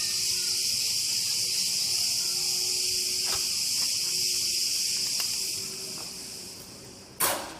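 Dense, steady, shrill chorus of insects in the trees, the sound the owner calls crickets. It fades away in the last couple of seconds as she steps indoors, and a sharp knock sounds near the end.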